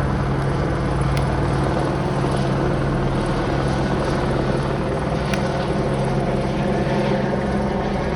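Rotors of a police aircraft overhead: a continuous, steady hum made of several low tones.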